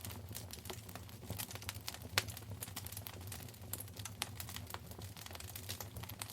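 Wood fire crackling and popping in a fireplace: irregular sharp snaps, one louder pop a little over two seconds in, over a low steady rumble of the flames.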